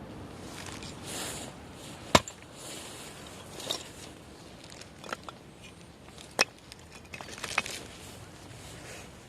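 Firewood being split: two sharp chopping strikes about four seconds apart, with lighter knocks and handling of the split wood between them.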